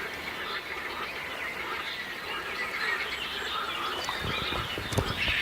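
Birds chirping and calling in a busy chorus, with a couple of low thuds and a sharp knock near the end.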